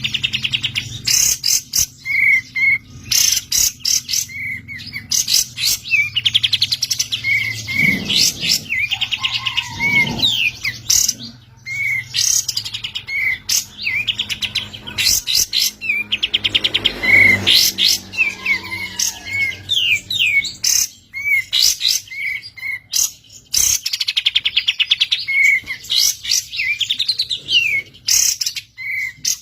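A kapas tembak songbird singing vigorously without pause: repeated short chirps and fast rattling trills, phrase after phrase. This is the energetic "gacor" song used as a training recording for caged birds.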